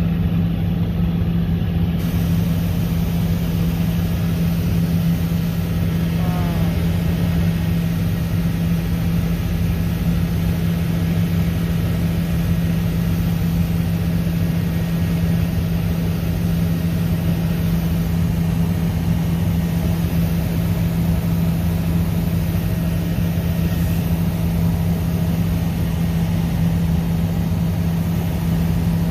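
Helicopter in flight: a steady, loud drone of turbine and rotor with a strong, constant low hum.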